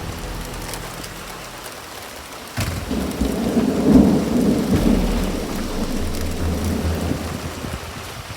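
A thunderclap breaks about two and a half seconds in, then rumbles and slowly fades over the next several seconds, over steady rain.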